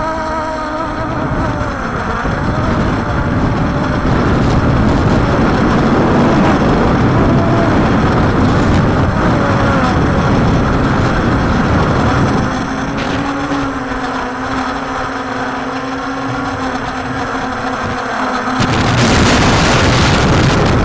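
Strong wind rushing over the microphone, with the electric motors of a Walkera Scout X4 quadcopter whining and shifting in pitch as it fights the gusts. A louder gust sweeps in near the end.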